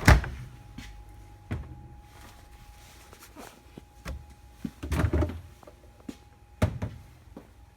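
Doors of an American-style fridge freezer being handled: a loud thunk at the start, a light knock, a cluster of thuds about five seconds in and another sharp knock near the end, over a faint steady hum.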